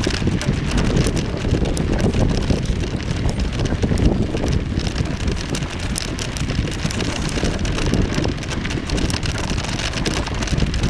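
Wind buffeting the microphone over the steady rumble and fine rattle of a bicycle being ridden.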